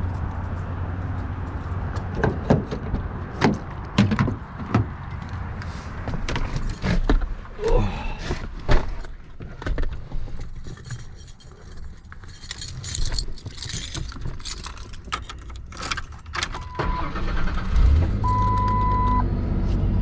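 Clicks and knocks of things being handled, then near the end a short steady electronic beep and a vehicle engine running.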